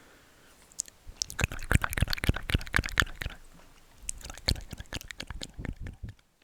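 Rapid wet mouth clicks and clicky whispering sounds close to the microphone, in two quick runs with a short pause between.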